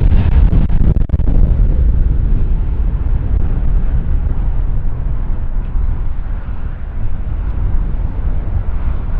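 Wind buffeting the camera microphone in a loud, flickering low rumble. The tail of a jet airliner's engine rumble fades out in the first second or so.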